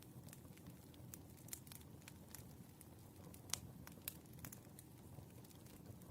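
Faint crackling of a wood fire: scattered sharp pops over a soft low rumble, the loudest pop about three and a half seconds in.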